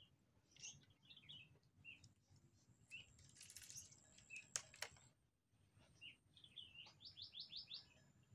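Faint small-bird chirps, scattered short calls with a quick run of about six notes near the end. Two sharp clicks about halfway through are the loudest sounds.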